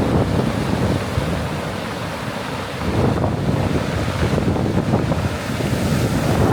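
Ocean surf breaking and washing ashore, with wind buffeting the microphone; the surf dips slightly and builds again about three seconds in.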